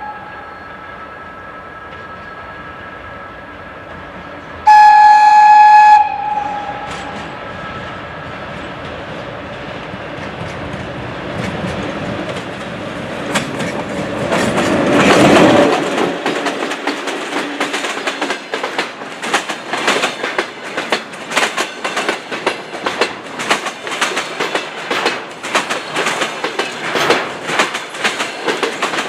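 VL10 electric locomotive sounds one horn blast of about a second, then runs past with its freight train, loudest about fifteen seconds in. After that come the rapid, steady clickety-clack of the freight wagons' wheels over the rail joints.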